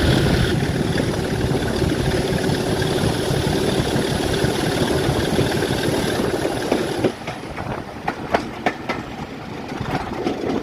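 A train working close by: loud locomotive running for about seven seconds, then dropping away to wheels clicking over the rail joints.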